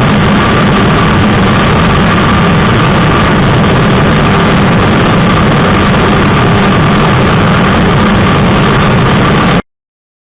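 Yamaha YZF-R3's parallel-twin engine held at steady high revs under a loud rush of wind on the microphone, at top speed into a strong headwind. The sound cuts off suddenly near the end.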